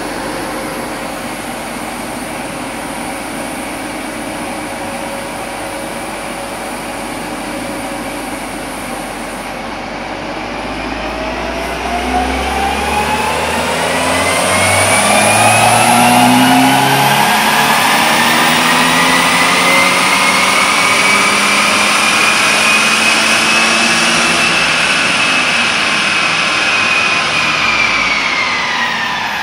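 A 2015 Subaru WRX's 2.0-litre turbocharged flat-four engine makes a dyno pull, with the driven wheels spinning the chassis-dyno rollers. It runs steadily for about ten seconds, then revs up under load in one long climb, quickly at first and then more slowly, getting louder. Near the end it drops back off. The car has an aftermarket intake and a pro tune.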